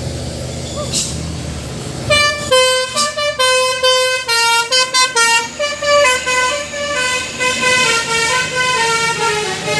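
A truck's diesel engine running with a brief air hiss, then about two seconds in its basuri musical horn plays a fast tune of short notes, stepping up and down in pitch.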